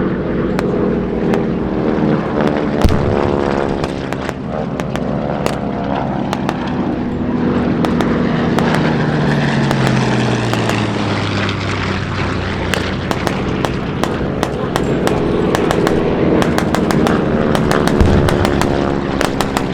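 Propeller warplanes flying low passes, the engine note falling in pitch as a plane goes by and another coming through near the end. Sharp pops throughout, and two dull thumps, one about three seconds in and one near the end.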